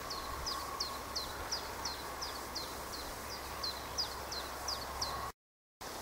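A small songbird repeating a short, high note that slides downward, about three times a second. The calls cut off abruptly near the end.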